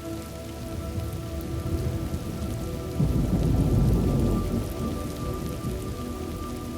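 Steady rain with a deep roll of thunder that swells about three seconds in and dies away a second and a half later, under soft sustained music tones.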